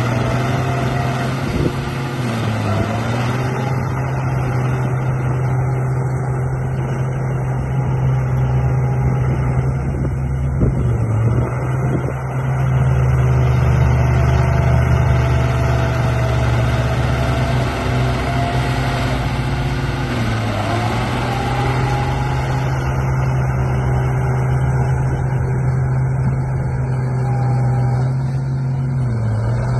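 Radio-controlled model bulldozer running: a steady low engine-like drone with a higher whine that wavers in pitch, briefly dipping and recovering about four times.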